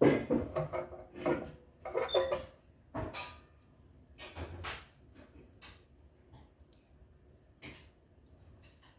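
Irregular knocks and clatter of objects being handled, with short squeaks mixed in. It is loudest in the first three seconds, then turns to sparse, fainter clicks.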